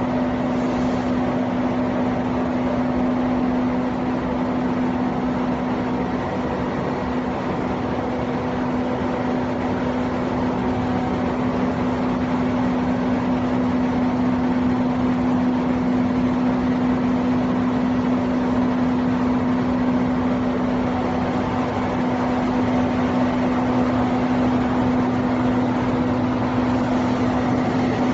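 PLA/PBAT bioplastic film extruder machine running: a steady machine hum with one strong low tone and fainter higher tones over an even noise.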